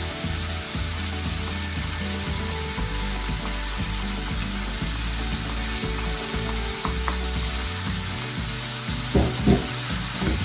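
Pork belly sizzling steadily in hot oil in a wok as shrimp paste is stirred in with a wooden spatula. Two sharp knocks of the spatula against the pan come near the end.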